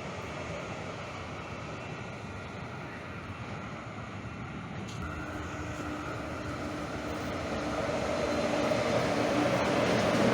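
Rail vehicle running, a steady rumbling noise with a faint steady hum coming in about halfway, growing louder over the last few seconds.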